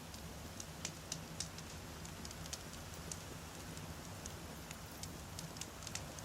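Wood fire burning, with frequent small, sharp crackles and pops from the logs at irregular moments over a low steady rumble.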